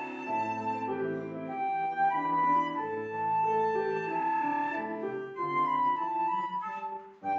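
A flute playing a melody of held notes over a piano accompaniment.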